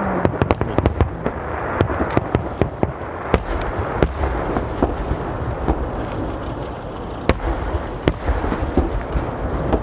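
Aerial fireworks going off in quick succession: many sharp bangs and cracks, several a second, over a continuous low rumble of bursting shells.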